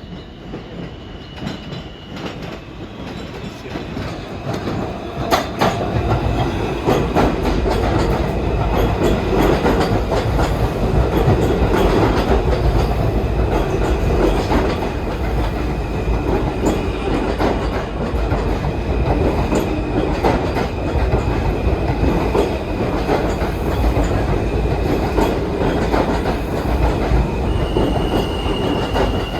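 New York City subway train running on the track. The noise builds over the first several seconds into a steady rumble, with clicks over rail joints and a thin, high, steady wheel squeal.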